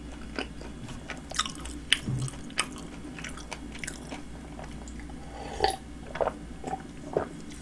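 A person chewing a Subway flatbread sandwich, with scattered short mouth clicks and smacks. In the second half come a few swallowing sounds as they drink soda from a plastic cup.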